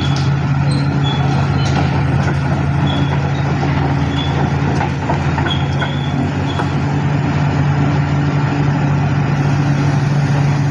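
Heavy diesel engine running steadily at constant speed, a loud low drone with faint short high peeps now and then.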